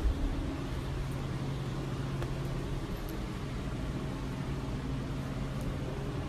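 Steady low mechanical hum and rumble with a constant low tone.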